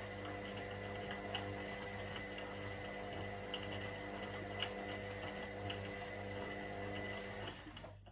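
Indesit IWC 71252 Eco washing machine running a cotton wash: a steady motor hum and whine with a few faint ticks, which dies away near the end.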